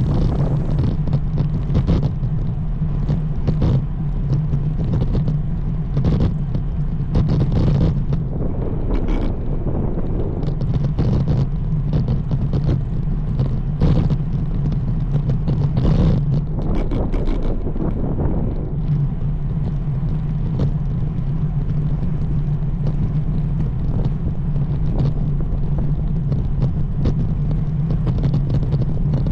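Wind and road rumble on a camera riding along on a road bike, with a steady low hum and frequent short knocks and rattles.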